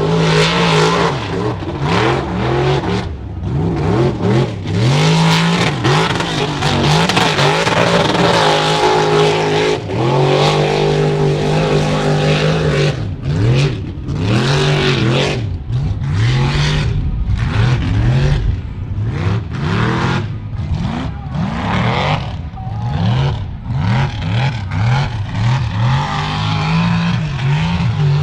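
Mud truck engine revving hard, its pitch repeatedly climbing and dropping, with stretches held steady at high revs.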